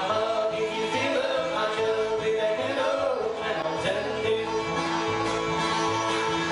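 Acoustic bluegrass band playing, with fiddle, guitar, harmonica and double bass: a melody bends and slides over a steady, even bass beat.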